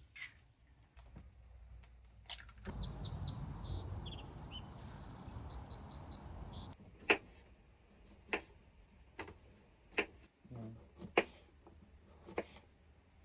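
A songbird sings a quick run of high chirps for about four seconds, over a rushing noise. After it come several sharp separate knocks, roughly one a second.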